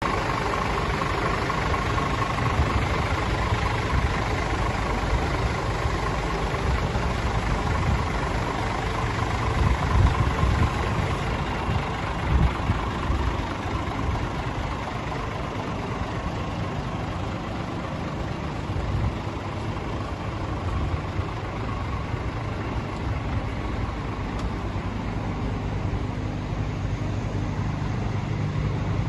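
Diesel engine of a 2015 Scania P410 tipper truck idling steadily, with brief louder swells about ten and twelve seconds in.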